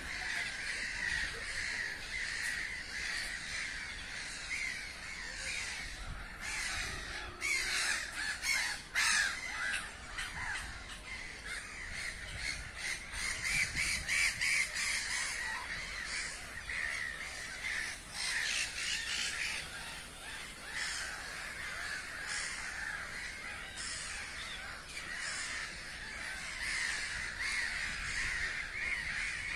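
A flock of birds calling continuously, many short calls overlapping, growing denser and louder in two stretches about a quarter and half way through.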